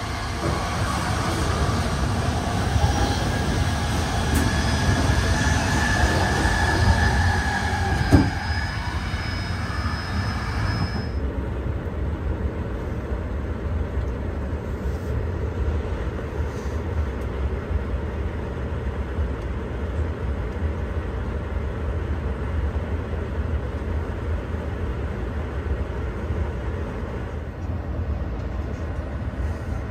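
Passenger train hauled by a Škoda 69Er electric locomotive, heard from on board: steady low rumble of the wheels on the rails. For the first eleven seconds or so a high whine rides over it, with one sharp knock about eight seconds in. Then the upper sound cuts off suddenly, leaving only the rumble.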